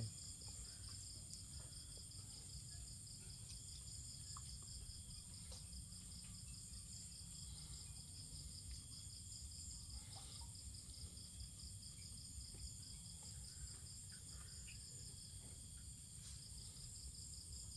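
Chorus of insects trilling steadily in fast pulsing high-pitched trills, with a low steady hum underneath and a few faint clicks.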